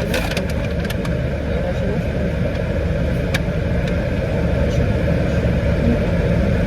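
Car engine running steadily, heard from inside the cabin as a constant low rumble.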